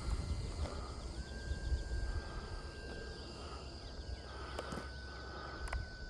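Insects chirping steadily, over a low rumble, with a faint steady whine that steps up in pitch about a second in. Two faint clicks come near the end.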